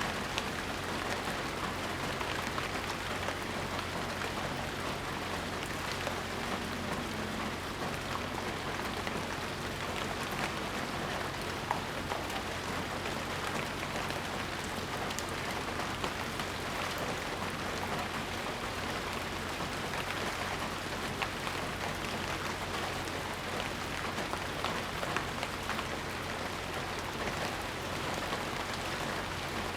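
Steady rain falling, a dense even hiss dotted with many small drip ticks.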